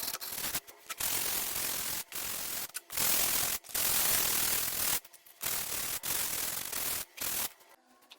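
Sandpaper rubbing over a wooden chair frame by hand in uneven strokes of about a second each, stopping near the end.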